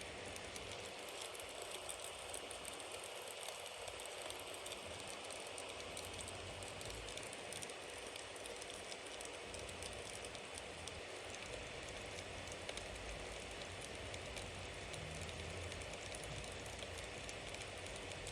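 Wood campfire burning steadily: a constant hiss dotted with many small, quick crackles and pops.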